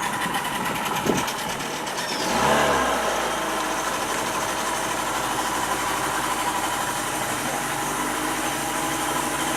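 Tour boat's motor running steadily, swelling briefly about two and a half seconds in.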